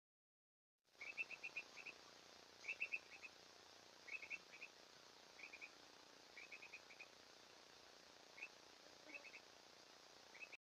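A bird calling in quick bursts of three to five short chirps, one burst about every second, over the steady hiss of a trail camera's microphone.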